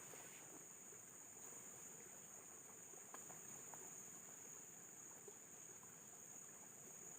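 Insects chirring in a faint, steady, high-pitched drone, with a few faint ticks.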